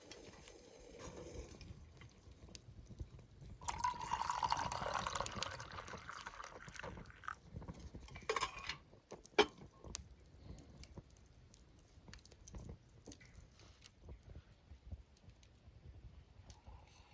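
Liquid being poured for a few seconds, with scattered small clicks and knocks of handling around it.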